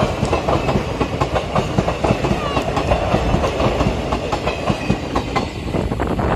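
Passenger train wagons rolling directly over the track close by, their wheels clattering rapidly over rail joints in a dense run of sharp metallic clicks and knocks.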